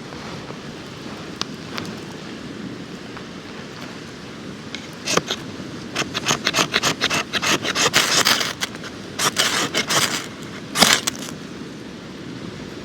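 A quick run of sharp scraping and rustling strokes, typical of camping gear being handled, bunched between about 5 and 11 seconds in, over a steady background of outdoor wind and surf noise.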